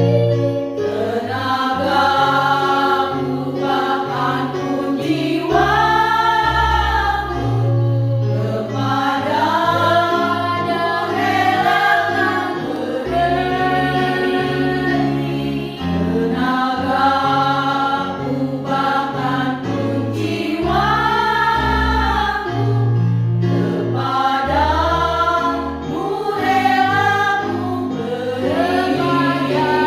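A choir singing in parts over a low instrumental accompaniment of held bass notes, in phrases of a few seconds each.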